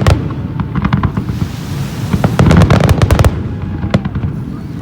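Aerial fireworks going off in rapid volleys of bangs and crackles over a deep rumble. The densest volley comes in the middle, and it thins out toward the end.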